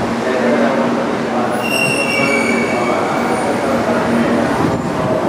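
JR Central 300 series Shinkansen train rolling slowly into the station with a steady rumble and low hum. A high, thin squeal starts about a second and a half in as it brakes, its pitch sliding slightly down.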